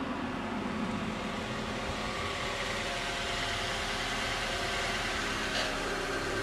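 A sedan's engine running as the car drives up and pulls to a stop close by, then idling, growing slightly louder as it comes near.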